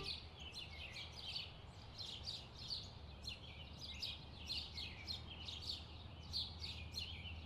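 Small birds chirping, faint: a steady run of short, high chirps, several a second.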